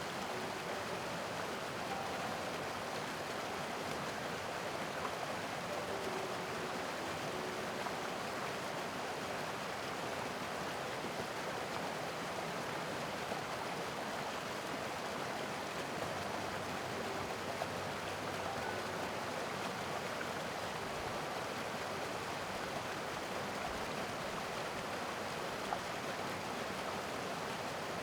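Mountain creek rushing over rocks: a steady, even water noise with no letup.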